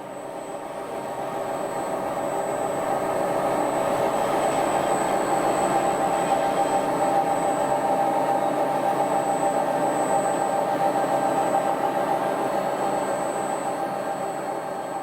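Lagun G-Cosmos 20 CNC bed mill running: a steady machine hum with a thin high whine over it, growing louder over the first few seconds and easing off near the end.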